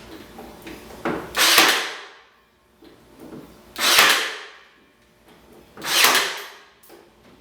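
Nail gun firing three times, about two seconds apart, each shot a sharp noisy burst that fades within a second, driving 3/8-inch nails through pallet planks.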